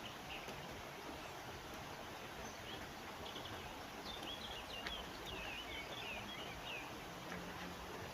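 Wild birds chirping and twittering over a steady outdoor rushing background, with a flurry of quick calls about halfway through.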